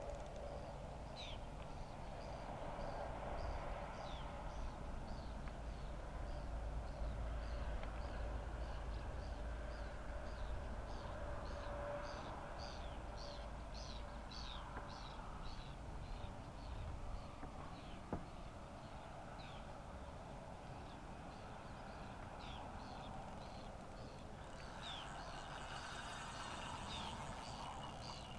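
Birds chirping outdoors, many short falling high notes repeated throughout, over a steady background hiss and a low rumble that fades out about halfway through. A single sharp click comes about two-thirds of the way in.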